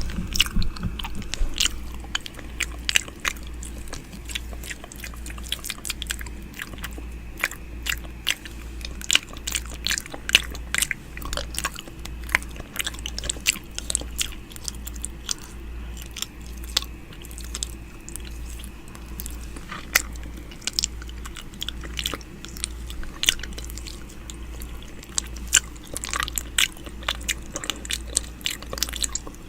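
ASMR 'ear eating' mouth sounds: lips and tongue making close, irregular clicks and smacks, with a low hum underneath.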